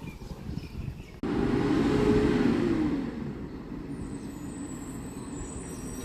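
Garbage truck running: a low rumble, then a sudden louder surge about a second in with a steady whine that drops away after a couple of seconds, settling back to a steady rumble.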